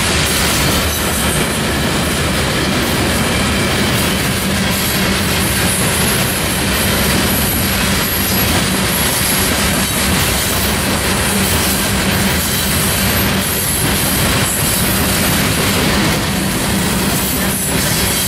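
Freight train of covered hopper cars rolling past close by: a loud, steady noise of steel wheels on rail that stays even throughout.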